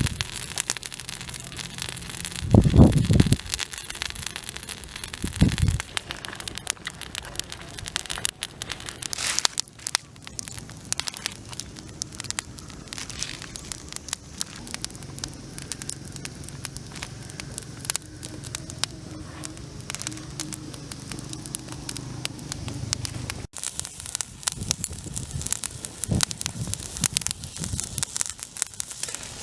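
Cooking fire crackling steadily, with two loud low thumps, about three seconds in and again near six seconds.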